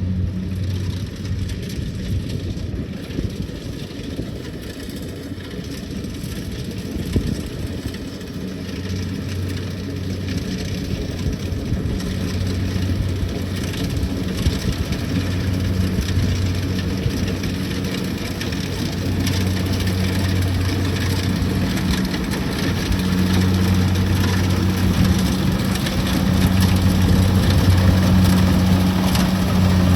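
Kubota DC-70 Plus combine harvester running: a steady low diesel engine hum over a mechanical clatter and hiss, growing gradually louder.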